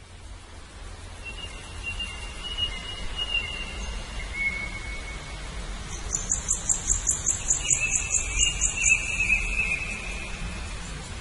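Birds calling: long thin whistled notes, then about six seconds in a high, rapid trill of roughly four notes a second that lasts about three seconds over another whistled note, with a low steady rumble underneath.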